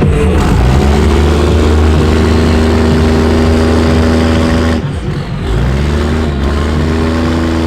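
Diesel pickup truck engine held at high revs, dipping briefly about five seconds in and then climbing back up.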